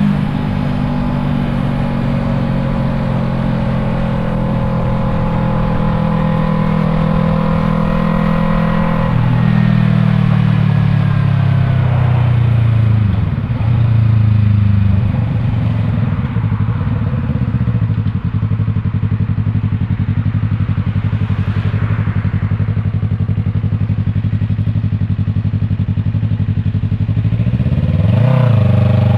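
Yamaha MT-03's parallel-twin engine through an aftermarket Arashi exhaust while riding: it holds a steady note, then falls in pitch as the bike slows, runs low for a long stretch with a few short blips of the throttle, and revs up again near the end.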